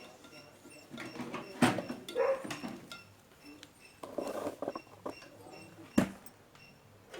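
Scraping, rustling and clicking handling noises as multimeter probes and parts are worked on a microwave oven's high-voltage diode and capacitor, with a sharp knock about a second and a half in and another near the end. A faint high chirp repeats about three times a second in the background.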